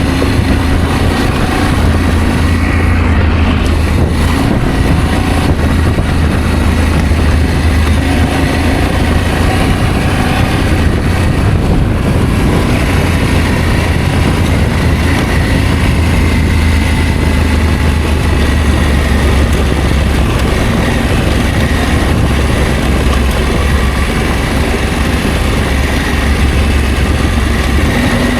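Adventure motorcycle running steadily on the move: a constant low engine drone under a loud, even rush of wind and road noise.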